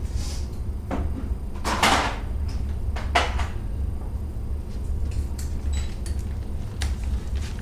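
Irregular knocks, clicks and scrapes of hand tools and bike parts being handled during disassembly, the loudest a longer scrape about two seconds in, over a steady low hum.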